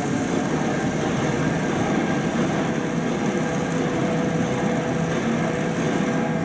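Large engine running steadily, a dense mechanical noise with a low hum.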